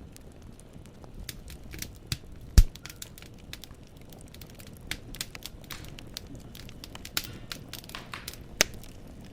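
Firewood burning in a fireplace, crackling with rapid irregular snaps over a low rumble. One loud pop about two and a half seconds in, and another sharp one near the end.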